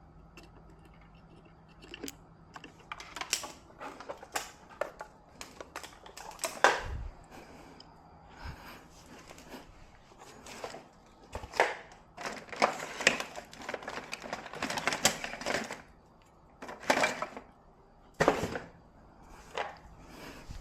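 Irregular clicking, tapping and scraping of small hand tools and parts being handled on a workbench, with a few louder knocks about seven, seventeen and eighteen seconds in.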